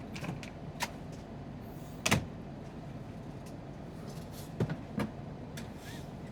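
Steady low hum of an idling truck, with a few sharp clicks and knocks, the loudest about two seconds in and two more close together near five seconds.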